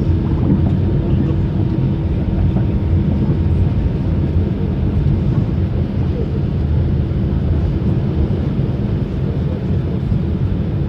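Steady low rumble inside an airliner's cabin on the ground after landing, the engines and wheels running evenly. A faint steady hum fades out about a second in.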